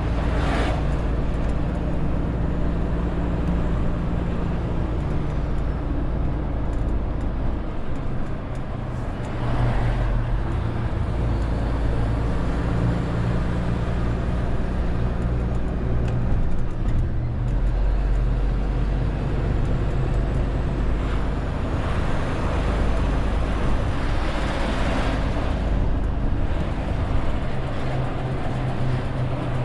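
Renault T520 truck's six-cylinder diesel engine running under load, hauling about 40 tonnes, with tyre and road noise; the engine note shifts pitch several times, and there are three short hisses, near the start, about ten seconds in and near 25 seconds.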